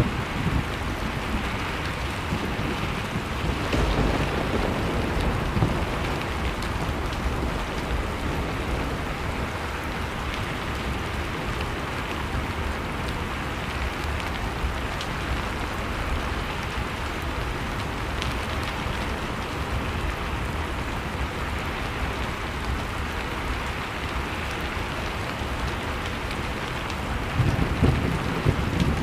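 Blizzard wind and a crackling fireplace mixed into one steady roar of noise. Low gusts swell up about four seconds in and again near the end.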